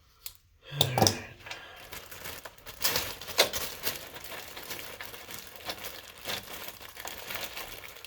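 Crinkling and rustling handling noise with many small irregular clicks, starting about a second in.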